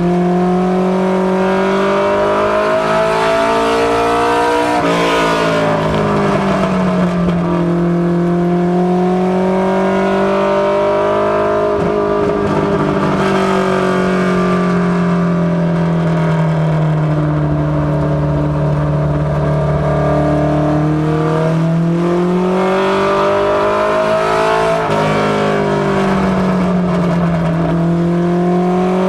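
Ford Mustang notchback ministock race car's engine running hard on practice laps. Its pitch climbs under acceleration and sags off when the throttle is lifted, in long sweeps, with a sudden break in pitch about five seconds in and again near the end.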